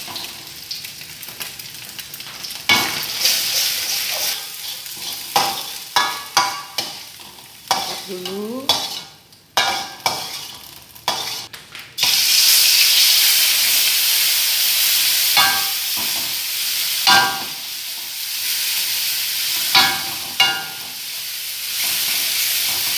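A metal spatula scrapes and clanks against a steel wok over a gas flame. About halfway through, a loud sizzle starts suddenly as ground chili paste goes into the hot oil, and it keeps sizzling steadily while the spatula scrapes the wok now and then.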